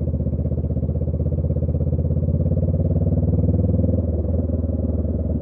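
Honda Rebel 500's parallel-twin engine running through a Radiant Cycles Shorty GP aftermarket exhaust, a steady pulsing exhaust note. The note lifts a little mid-way and eases off about four seconds in.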